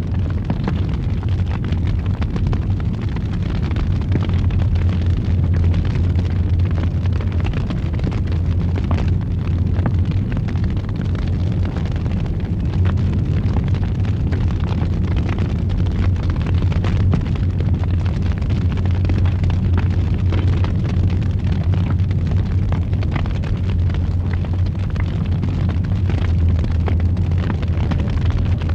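Fireplace wood fire burning with a steady low roar and frequent small crackles and pops.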